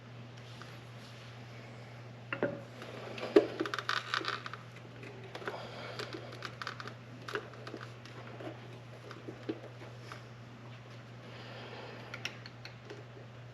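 Hands fitting pod air filters and their clamps onto a motorcycle's carburettors: scattered clicks, knocks and rubbery, crinkly handling noise, busiest a couple of seconds in and again near the end, over a steady low hum.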